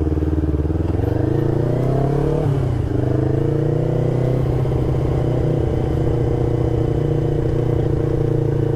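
Motorcycle engine heard from on board while riding: the revs climb, drop sharply at a gear change about two and a half seconds in, climb again, then hold steady at a cruise.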